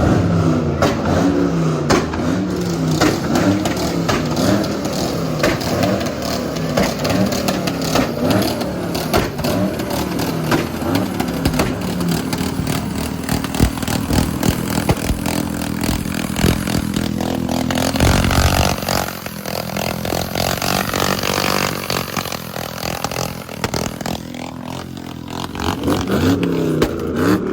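Loud car engine revved hard over and over, then held at high revs for several seconds before dropping off about two-thirds of the way through, with sharp crackling throughout; the revving picks up again near the end.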